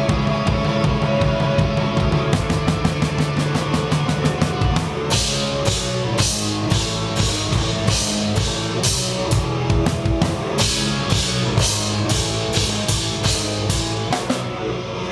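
Live rock band playing, with the drum kit loudest: rapid bass drum and snare hits, and crashing cymbals coming in about five seconds in and hit repeatedly.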